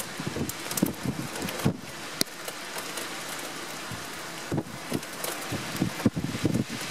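Steady rain hiss during a summer thunderstorm, with irregular louder patters of drops close by.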